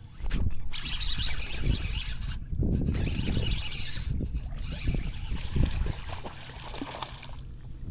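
Water splashing and sloshing around a kayak in three long stretches, with wind buffeting the microphone.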